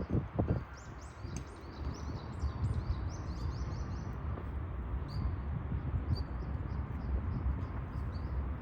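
Small birds chirping: a quick series of short high chirps from about one to four seconds in, then a few scattered ones, over a steady low outdoor rumble.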